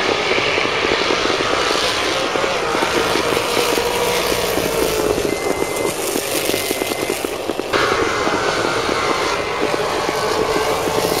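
Engines of high-performance drag-racing cars running loud and continuous, with an abrupt change in the sound about eight seconds in.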